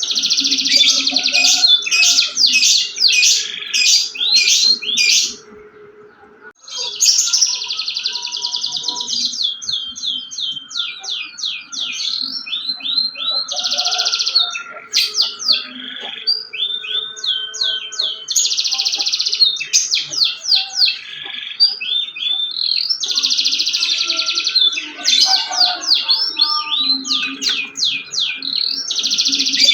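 Domestic canary in full song: a long run of rapid trills and rolls, breaking off briefly about six seconds in and then singing on.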